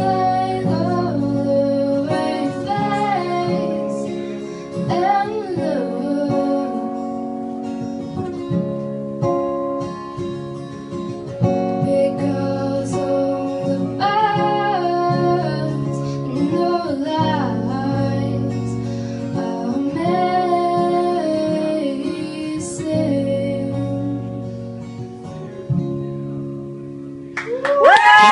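A woman singing to her own acoustic guitar accompaniment, the sound dying down near the end as the song closes.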